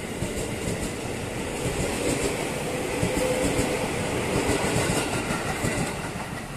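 A train passing along the track, its wheels beating out a steady clickety-clack over the rail joints.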